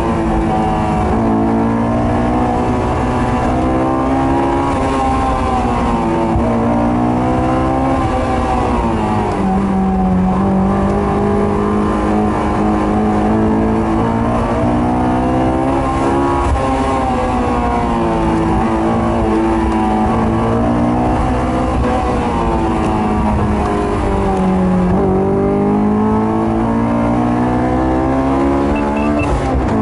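Sports car engine at high revs, its pitch climbing and dropping again and again as the car accelerates and slows between the cones of an autocross course, heard from inside the open-top convertible.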